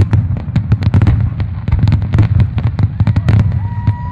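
Fireworks display: a rapid barrage of shell bursts, several bangs a second, over a continuous low rumble of echoing booms. A steady high tone comes in about three seconds in.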